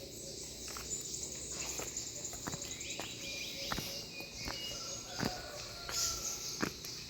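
Footsteps, one step about every second, over a steady high insect buzz, with a few short high chirps.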